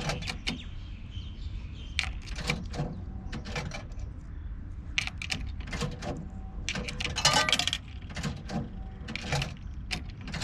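Irregular clinking and rattling of small hard objects being handled, over a steady low rumble, with the busiest clatter about seven seconds in.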